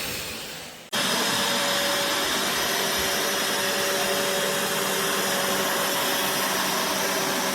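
BISSELL Revolution HydroSteam Pet carpet cleaner's suction motor dies away, then switches back on about a second in. It then runs steadily with a constant whine.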